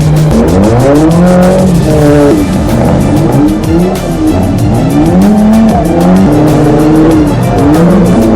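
Racing car engines revving up and shifting, the pitch climbing and dropping again several times, over music with a steady beat.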